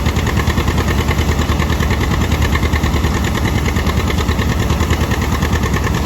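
John Deere 730 diesel tractor's two-cylinder engine running steadily, with the even clatter of belt-driven threshing machinery mixed in.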